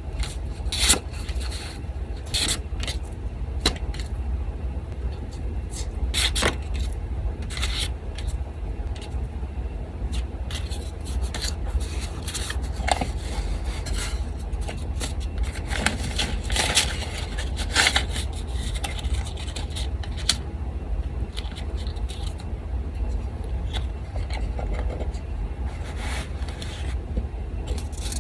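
Paper being handled, rubbed and scraped on a desk in irregular short rustles and clicks, with the steady low hum of an electric fan underneath.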